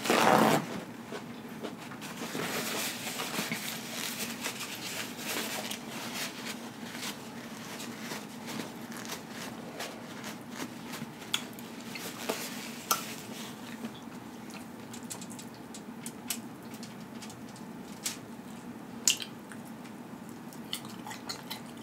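A short tearing rip of a paper towel at the very start, then chewing and eating sounds: wet smacking and squishing with small crunches and clicks throughout.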